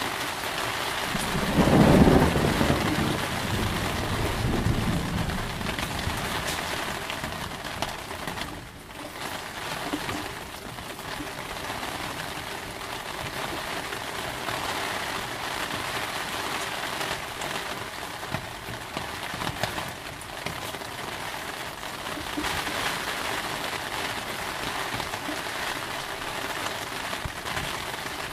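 Steady heavy rain, with one deep thunder rumble that swells about two seconds in and dies away over the next few seconds.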